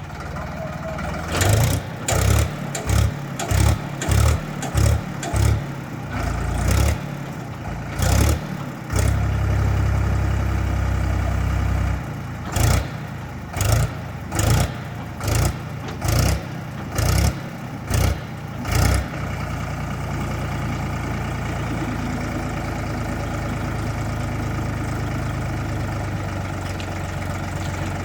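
Powertrac tractor's diesel engine running. It gives a long series of short, loud bursts, about one or two a second, with a few seconds of continuous louder running in the middle, then settles to a steady even run for the last third.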